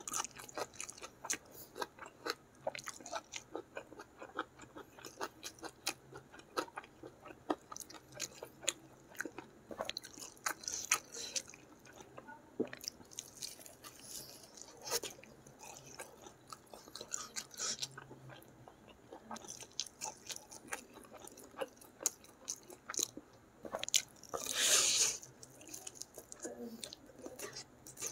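Close-up mouth sounds of a person eating gulai chicken and rice by hand: steady chewing with many short wet smacks and clicks as he bites into the chicken. Near the end comes one louder rushing noise lasting about a second.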